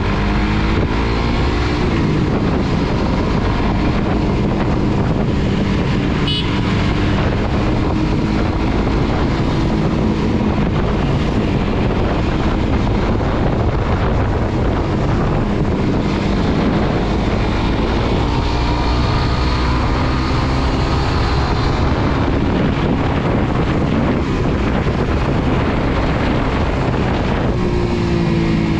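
Suzuki GSX-R150's single-cylinder engine running under way, its pitch rising and falling with the throttle near the start, around two-thirds of the way through and near the end, with heavy wind noise on the microphone.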